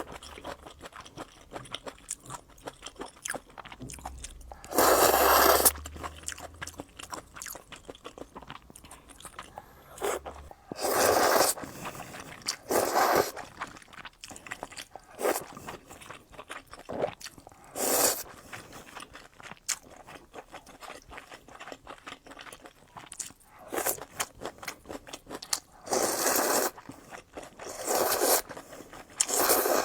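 Close-miked eating: crunchy chewing and biting with many small mouth clicks, broken by several louder bursts of about half a second to a second each.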